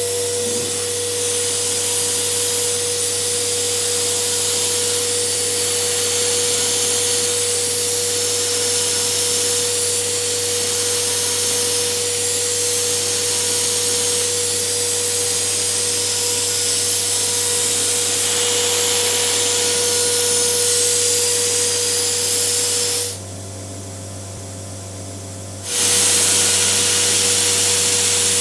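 CNC router spindle running with an end mill cutting acrylic sheet: a steady hissing cut over a constant tone. Near the end it drops abruptly to a quieter low hum for about two and a half seconds, then the cutting sound resumes.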